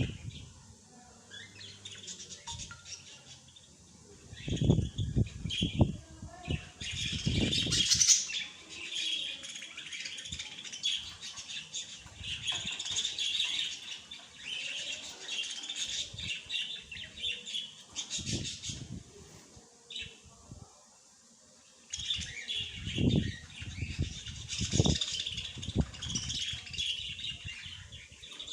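Small birds chirping in dense, rapid runs, with several loud low fluttering thumps between them, like wings beating.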